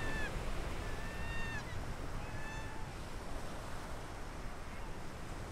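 A bird calling in drawn-out, slightly wavering notes that dip at the end: the tail of one call, then two more about a second apart. Under the calls is a steady hiss of surf and wind.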